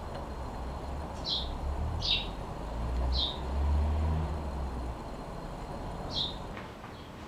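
A small bird chirping: four short high chirps, three about a second apart, then a fourth after a pause of about three seconds, over a low rumble that swells in the middle.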